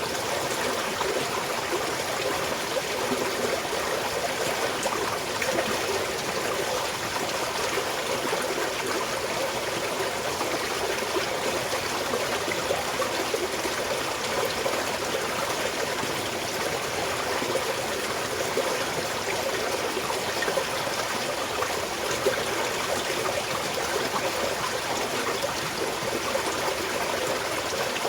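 A small mountain stream running and trickling over stones, a steady, even babble of flowing water.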